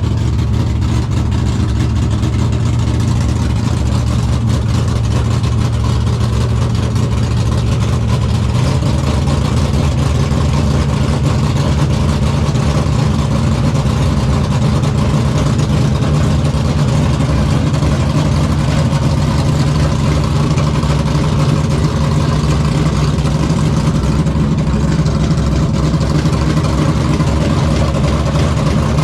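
A car engine idling steadily and loudly; about eight seconds in its pitch steps up slightly and then holds at a faster idle.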